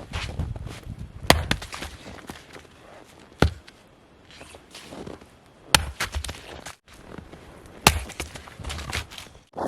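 Firewood being chopped with an axe: four sharp strikes about two seconds apart, each followed by smaller knocks of wood.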